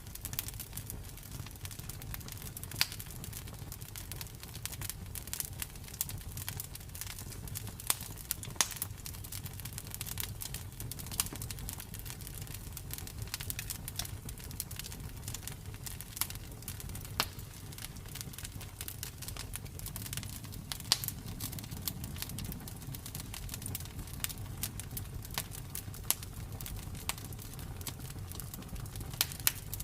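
Campfire burning steadily with a low rumble, and wood crackling and popping at irregular intervals throughout.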